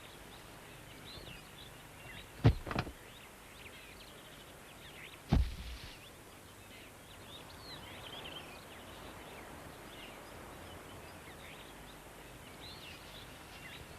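Faint outdoor ambience of scattered small bird chirps, broken by sharp thuds: two quick ones about two and a half seconds in and a heavier one a little after five seconds.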